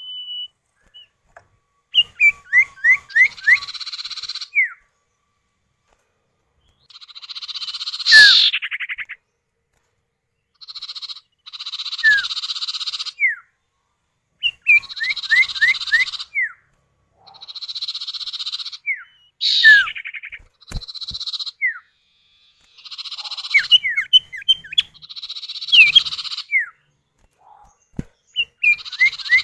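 Common iora (sirtu, cipow) pair calling back and forth, male and female. Runs of quick falling whistled notes alternate with longer harsh buzzy rasps, and the phrases repeat every two to three seconds.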